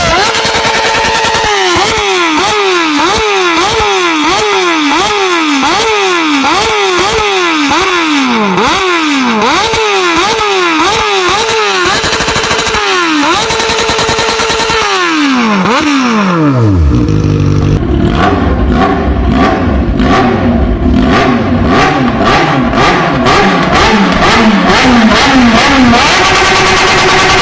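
Four-cylinder sport motorcycle engine held against its rev limiter: the high engine pitch drops and climbs back over a dozen times as the limiter cuts in, then the revs fall away. A lower-pitched engine follows, running with rapid crackling cuts.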